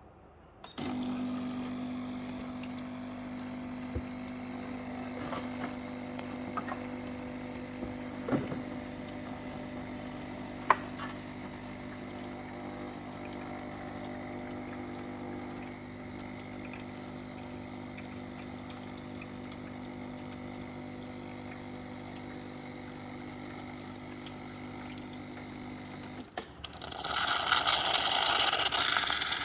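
Double-boiler espresso machine's pump running with a steady hum, with a few small clicks, for about 25 seconds: an espresso shot being pulled. It cuts off abruptly, and a louder rushing hiss follows near the end.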